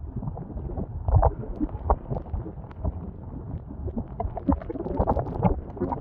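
Storm-force wind buffeting the microphone in uneven gusts, a heavy low rumble that swells and eases, with scattered short knocks and rustles over it.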